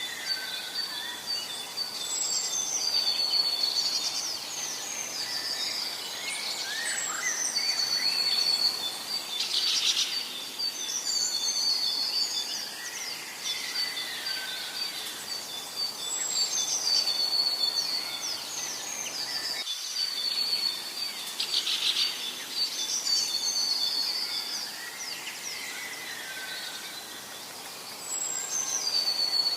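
Forest ambience with songbirds singing: a high whistled song phrase comes back every few seconds over a steady high trill and faint background hiss.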